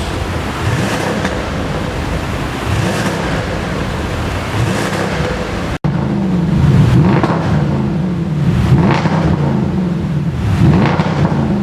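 Audi S6 with an aftermarket dual valved exhaust, its engine revved again and again, the exhaust note rising and falling with each blip. A sudden cut about six seconds in, after which the revs come louder and quicker.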